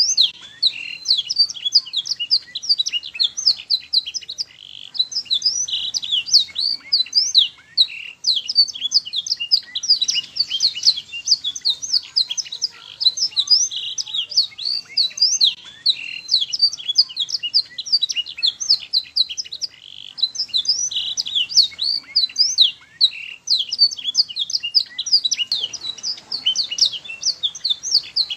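Domestic canary singing a long, fast song of rapid chirps and trills. The song runs on in phrases, with brief pauses every few seconds.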